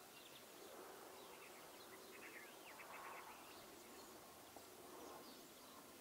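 Faint outdoor ambience with small birds chirping in the distance: a quick run of short high chirps about two seconds in, and a few single chirps later, over a low steady background hiss.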